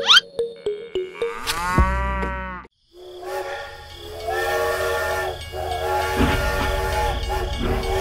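Battery-powered toy steam train running on its plastic track, its built-in sound playing a steam-whistle effect in long, steady blasts with short breaks over the low hum of its motor. Before it, in the first three seconds, a quick rising swish, a few clicks and a short pitched tone.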